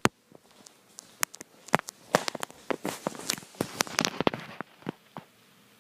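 Irregular clicks and knocks of someone walking with a handheld camera, footfalls and handling noise, stopping about five seconds in.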